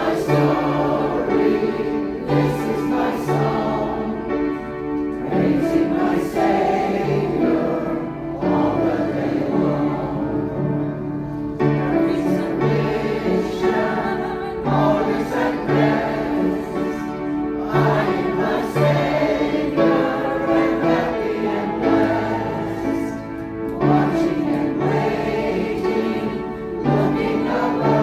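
A choir singing a song together in held, sustained notes that change every second or so.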